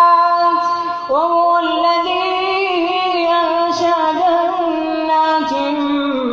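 A boy's voice chanting Quran recitation in the melodic tajweed style, drawing out long held notes with slow ornamented turns in pitch, with a short breath about a second in.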